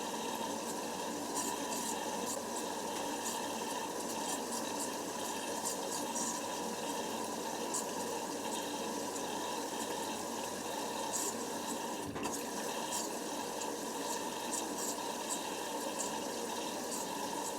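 Hoover Nextra HNWL7146 washer dryer with water rushing steadily through it during a wash cycle: an even hissing rush with a faint steady hum, unchanging throughout.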